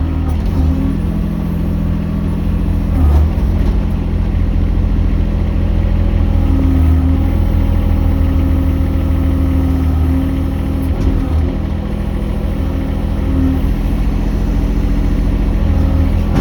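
Mini excavator engine running steadily, with a slightly higher note showing for a while in the middle.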